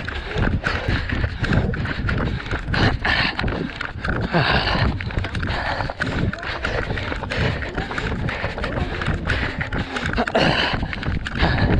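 Running footsteps in a steady rhythm, mixed with the knocking and rubbing of a body-worn GoPro camera jolting with each stride.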